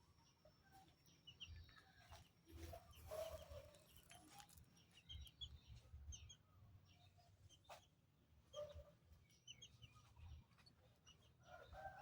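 Near silence, with faint bird calls: scattered short high chirps and a few lower calls, over a faint low rumble.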